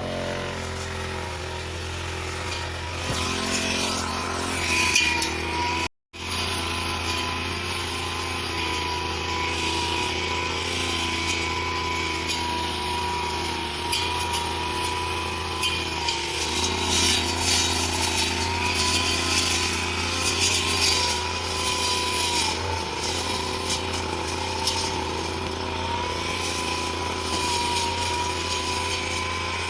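Small engine of a grass-cutting machine running steadily at working speed, its pitch wavering slightly. The sound cuts out for a split second about six seconds in.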